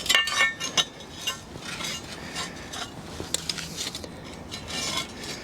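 Metal clinking and rattling as steel pieces and clamps are handled: a cluster of sharp clinks that ring briefly in the first second, then scattered knocks and clinks.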